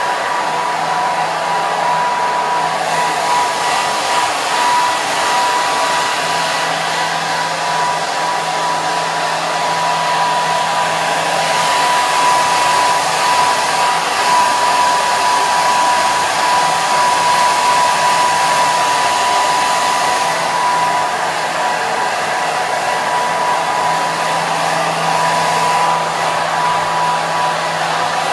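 Hair dryer running steadily: an even rushing blow with a steady high whine from the motor under it.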